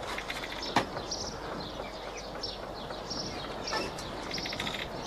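Birds chirping and twittering steadily, many short high chirps and quick falling notes, with one sharp knock about a second in.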